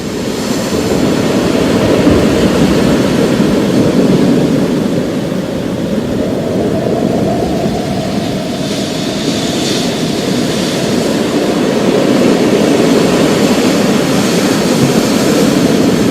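Thunderstorm: a long, low rolling rumble of thunder that swells and eases, over a steady hiss of rain.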